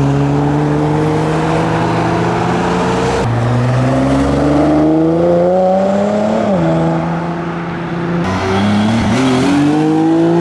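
A car engine accelerating away, its note climbing steadily, with several gear changes that break and drop the pitch before it climbs again.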